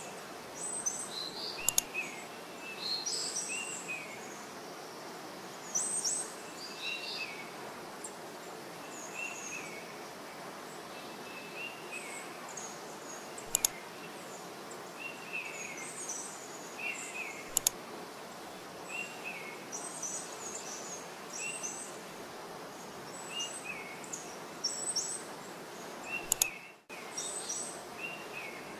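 Small birds chirping repeatedly in short calls over a steady hiss, with four sharp clicks spread through.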